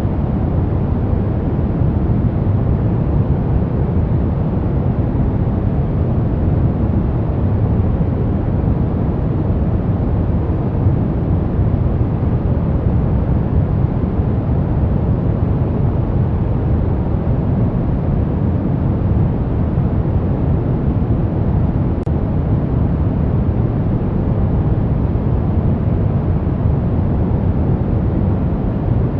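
Steady, unchanging noise-generator track sold as white noise: an even, deep rushing hiss, heaviest in the low end and dull in the highs.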